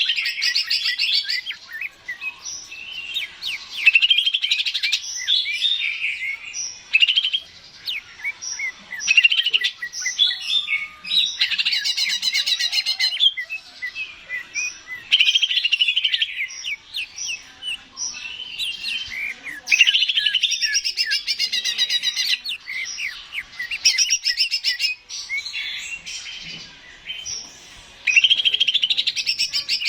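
Cucak ijo (green leafbird) singing: a fast, varied stream of chirps, trills and whistles in phrases of a few seconds, broken by short pauses.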